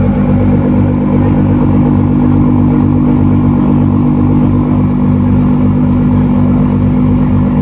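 Car engine running steadily close by: a loud, even low hum with a regular pulse that does not change pitch.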